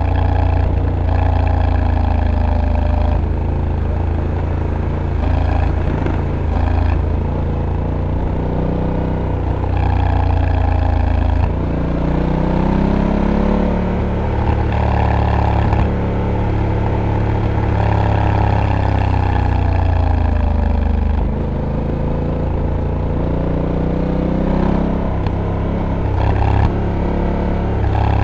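Honda Africa Twin's 1084 cc parallel-twin engine under way, its revs rising and falling through a run of corners, with sudden steps in pitch a couple of times as the dual-clutch gearbox changes gear.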